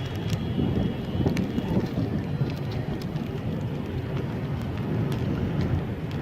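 Knife cutting and scraping through a bar of soap close to the microphone: a continuous low, rough scrape with many small crumbly crackles scattered through it.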